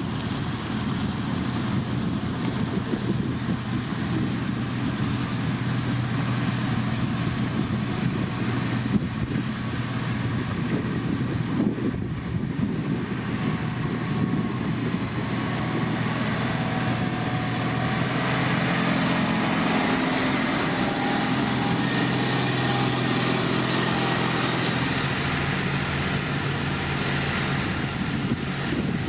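Heavy diesel road-construction machinery running steadily, with a low, even engine hum. About two-thirds of the way through, a higher engine note comes in and the sound grows a little louder.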